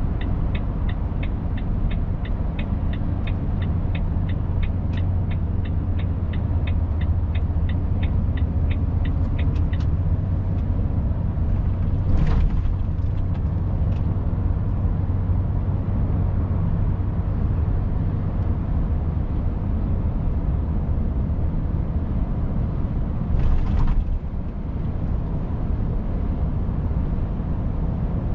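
Cab of a Volvo FH 500 truck on the move, its diesel engine a steady low hum, with the turn-signal indicator ticking rapidly and evenly for the first ten seconds. Two short hisses of air come about twelve seconds and twenty-four seconds in.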